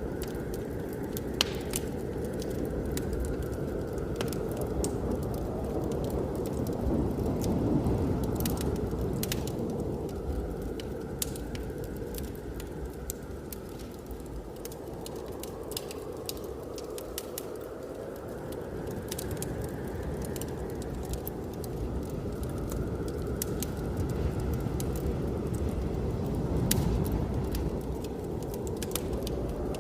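Wood fire crackling, with sharp pops scattered throughout, over a steady rushing of blizzard wind that slowly swells and fades.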